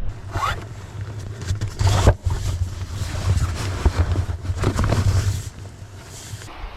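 Low rumble of wind buffeting the microphone, with a few swishes that rise and fall about every second or so.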